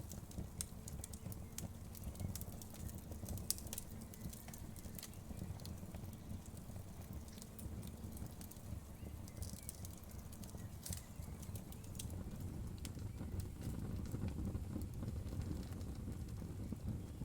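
Wood fire burning in a fireplace: scattered sharp crackles and pops of the burning wood over a steady low rumble of the flames.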